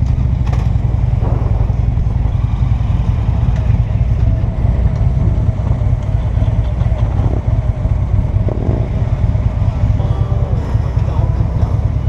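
Motorcycle running on the road, its engine heard under heavy wind rumble on the microphone, with a faint engine note that drifts up and down in pitch.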